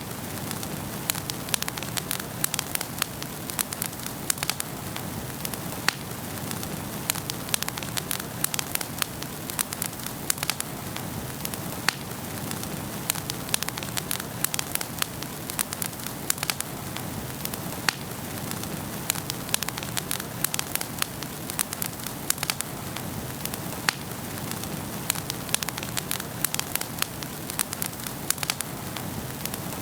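Wood fire burning in a fireplace: a steady hiss under frequent sharp crackles and pops from the logs, several a second.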